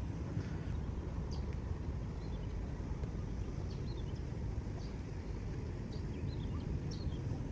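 Steady low rumbling outdoor background noise, with a few faint short high chirps scattered through it.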